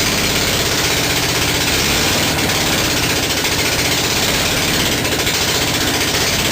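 Alfa Romeo Alfasud 1.7-litre 8-valve flat-four boxer engine with twin Weber IDF40 carburettors, running on a test bench with no exhaust fitted. It runs loud and steady, its firing pulses coming straight out of the open ports.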